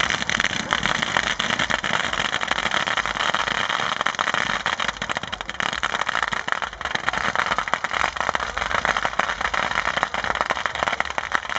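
Large bonfire burning, a steady rush of flame with dense, continuous crackling.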